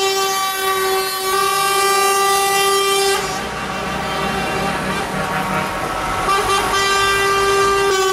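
Truck air horns sounding in long, steady blasts of several tones together. The loud blast drops away about three seconds in, fainter horns carry on, and a loud horn starts again a little after six seconds.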